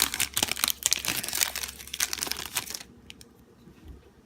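Wrapper of a football trading-card pack crinkling and tearing as the pack is opened by hand, a dense crackle that stops about three seconds in.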